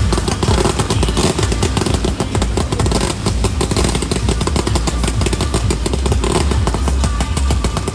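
Fireworks going off in a dense barrage: rapid crackling and popping over a steady low rumble.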